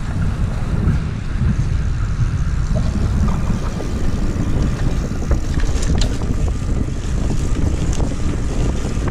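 Wind rushing over the microphone of a camera carried on a moving bicycle, a steady low rumble, with a faint click about six seconds in.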